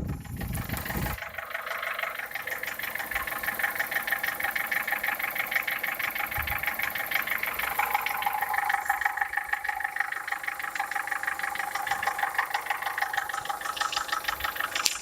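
Warm Toyota 4S four-cylinder engine idling with a fast, even knock from the cylinder head, which the owner traced to play in the camshafts in worn camshaft bearing journals.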